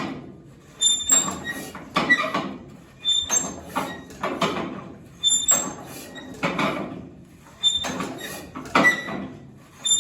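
1937 Massey Harris 25 tractor engine being cranked over without catching: a squeaky, scraping stroke about once a second, eight in a row. The choke is on and the owner suspects the engine is flooded.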